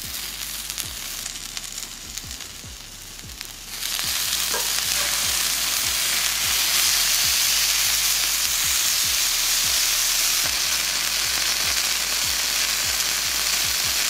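Broth-dipped quesataco frying in beef fat and melting cheese on a cast-iron comal, a steady sizzle with faint crackles. The sizzle turns much louder about four seconds in and stays that way.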